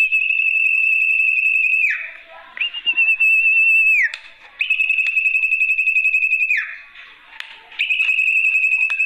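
Lure call of a sertu (zepo) bird: long, high, quavering whistled notes, each held about two seconds and ending in a quick downward slide, repeated four times about a second apart.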